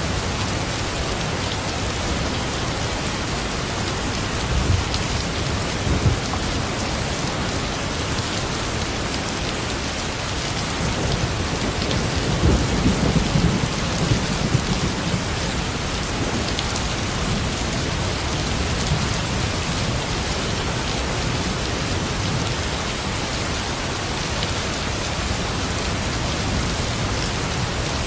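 Steady rain falling, with low rumbles of thunder. The loudest rumble comes about twelve to fifteen seconds in.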